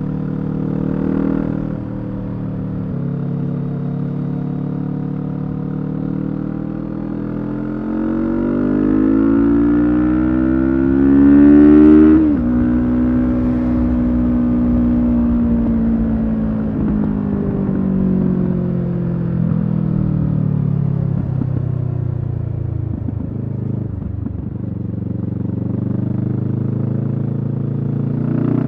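Kawasaki Z650's parallel-twin engine through a Leo Vince EVO carbon exhaust, on the move. It runs steadily, then the revs climb for about four seconds to the loudest point near the middle and drop sharply. After that the engine note winds down slowly for about ten seconds before levelling off.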